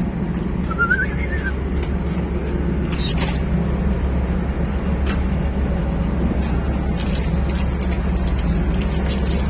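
A steady low motor drone, with a brief wavering chirp about a second in and a short loud hiss about three seconds in.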